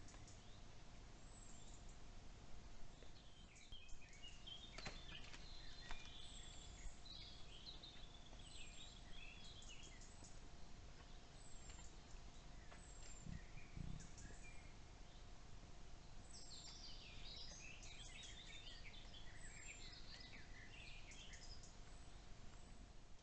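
Faint forest ambience of songbirds: a short high call repeating every second or two, and bursts of warbling song twice, over a faint steady hum. A couple of sharp clicks fall about five seconds in, and a low, dull rumble comes about halfway through.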